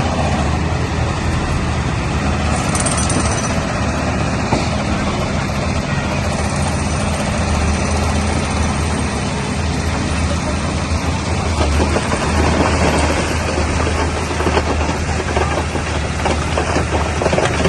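Bulldozer's diesel engine running steadily, with scattered clatter over it.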